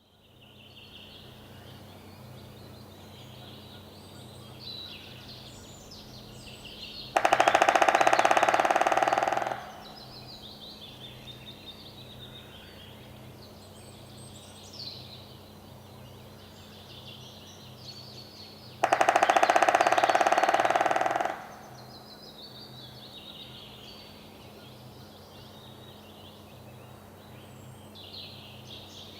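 White-backed woodpecker drumming: two long rolls about twelve seconds apart, each lasting about two and a half seconds, with rapid strikes that speed up and fade toward the end. Other birds sing faintly throughout.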